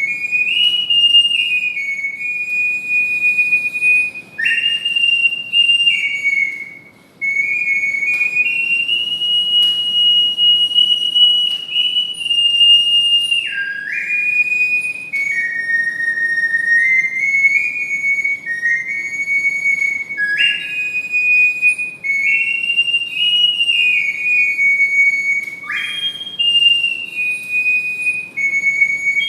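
Ocarina playing a slow melody in a high register, with long held notes and two short breaks about four and seven seconds in.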